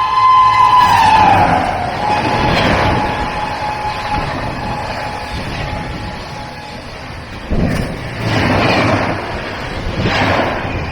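An express train passing at speed with its horn sounding; the horn note drops in pitch as the train goes by in the first second or two. It then fades under the loud rush of the passing train, which swells twice near the end with gusts of wind.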